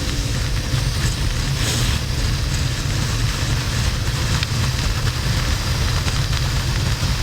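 Harley-Davidson XL1200N Sportster's air-cooled V-twin engine running steadily at cruising speed, with a low rumble under a constant hiss of wind and road noise.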